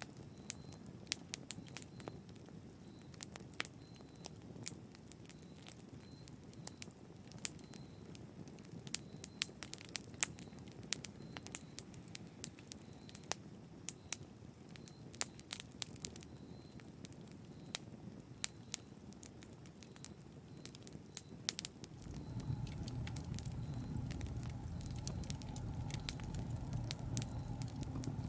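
Wood fire crackling, with many small sharp pops over a soft low rush of flames. Near the end a louder low rumble joins in.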